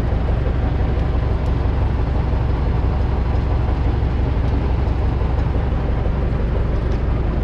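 Universal U650 tractor's diesel engine running steadily under load, pulling a seed drill, a continuous low drone.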